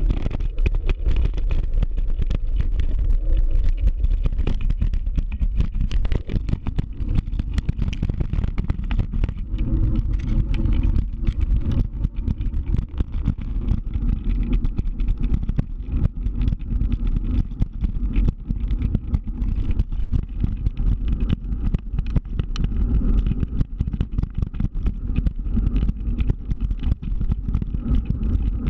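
Scooter riding along: a steady low rumble of the moving scooter, with constant choppy wind buffeting on the microphone.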